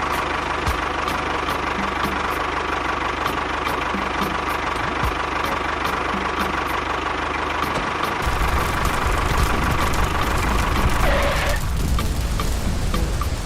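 Small motor of a homemade model bulldozer running steadily with a whine. A deeper rumble grows louder about eight seconds in.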